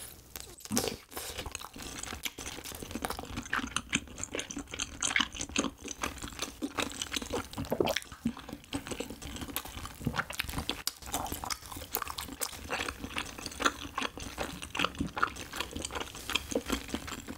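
Close-miked wet chewing of a warm tteokbokki-flavoured cheese rice cake (tteok) with melted cheese inside: a quick, steady run of small sticky clicks and smacks.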